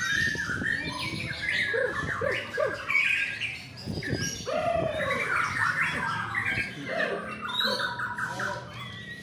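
Several white-rumped shamas singing at once, their varied whistled phrases, sweeps and rapid trills overlapping without a break.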